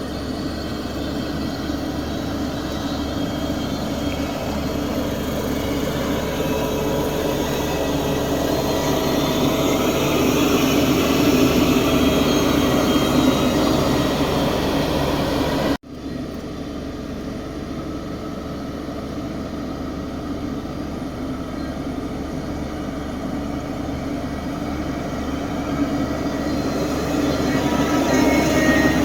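Heavy diesel machinery running steadily under a working load, its level slowly swelling; about halfway through the sound cuts out for an instant and resumes.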